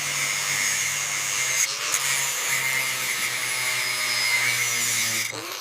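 A small electric motor running steadily, with a low hum and a strong hiss. It stops abruptly just before the end.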